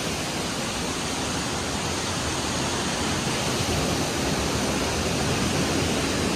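Waterfall crashing, a steady, even rush of falling water close by.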